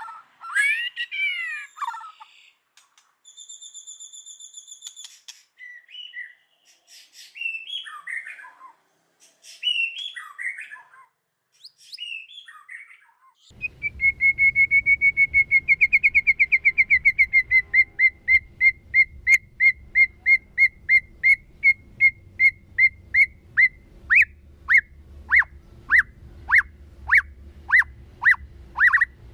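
White-rumped shama singing: varied whistled phrases, then about halfway through a long run of rapid, evenly repeated notes that gradually slows toward the end. A faint low hum starts at the same moment as the run.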